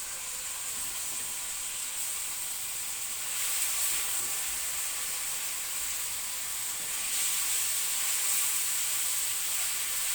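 Cubes of chicken breast sizzling in hot oil in a frying pan with onions and spices, a steady hiss that gets a little louder about three and a half seconds in and again about seven seconds in.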